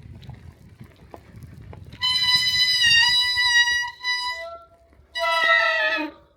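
Bicycle brakes squealing loudly as the bike slows to a stop on a snowy street: a long, slightly wavering squeal, then after a brief pause a shorter squeal that falls in pitch. The tyre and wind rumble dies away as the bike stops.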